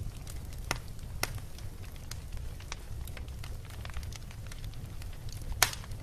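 Wood bonfire crackling, with scattered sharp pops, the loudest one near the end, over a steady low rumble.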